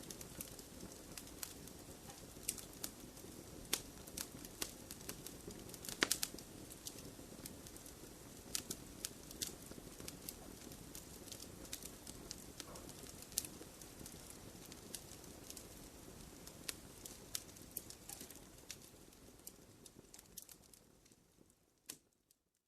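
Wood fire crackling in a fireplace: irregular sharp pops and snaps over a low steady rush of flame, the loudest pop about six seconds in. The fire fades away near the end.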